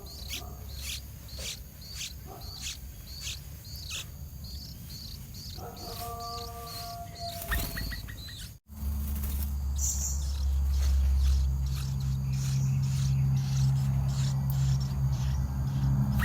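Short, high chirps repeating about twice a second, with a couple of held lower tones among them. About eight and a half seconds in the sound cuts off and a low steady hum takes over, growing louder.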